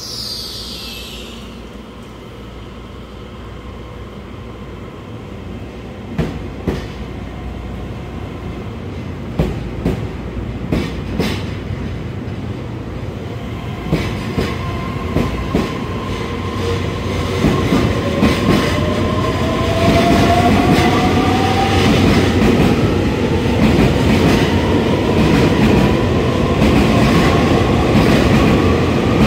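Train gathering speed, its running noise growing steadily louder. The wheels click over rail joints, and from about halfway through a motor whine rises in pitch.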